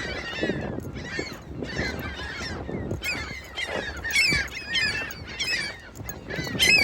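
A flock of seagulls calling over one another, many short overlapping cries.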